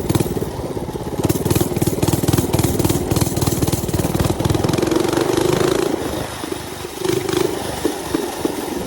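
Mini bike's small engine running under throttle while riding, with rapid firing pulses; it eases off about six seconds in, then picks up briefly twice.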